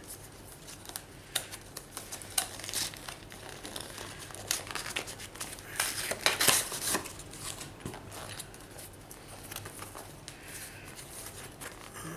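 Product packaging being opened and handled by hand: plastic and paper crinkling and rustling with scattered clicks and taps, busiest about halfway through.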